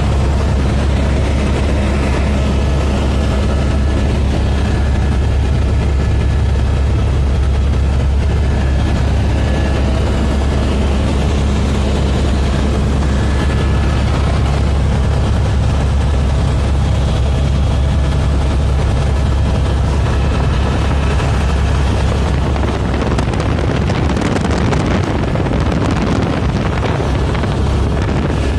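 Helicopter in flight: a loud, steady low drone of the rotor and engine that holds unchanged throughout.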